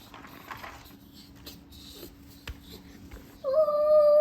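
Faint clicks of wooden toy pieces being handled, then about three and a half seconds in a battery-powered toy train's electronic whistle sounds: a loud, steady, reedy tone that starts suddenly and holds.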